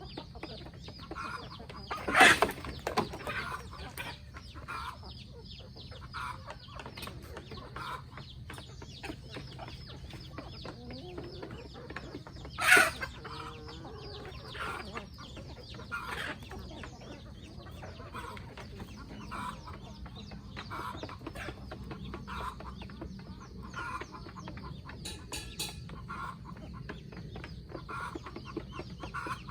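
A flock of free-range chickens clucking: many short clucks repeating throughout, with two loud, sharp sounds about two and thirteen seconds in.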